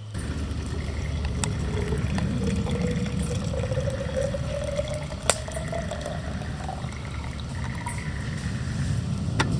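Water running into a container, its pitch slowly rising as the container fills, over a steady low rush, with a sharp click about five seconds in and another near the end.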